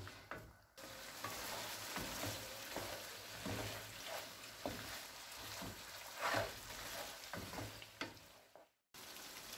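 Mutton karahi sizzling in butter and yogurt gravy in a karahi, stirred with a spatula that scrapes the pan in repeated strokes. The sound cuts out briefly near the end.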